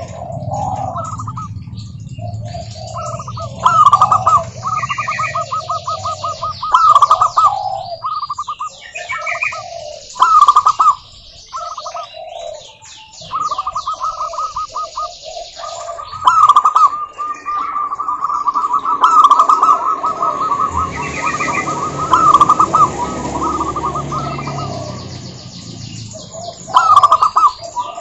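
Zebra doves (perkutut) cooing: bursts of rapid, staccato trilled coos come every few seconds, overlapping as several birds call at once. Higher, quicker chirps of small birds sound alongside.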